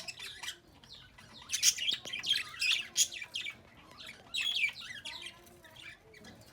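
Birds chirping: a run of short, high chirps, many sliding down in pitch, coming in clusters with the loudest around the middle.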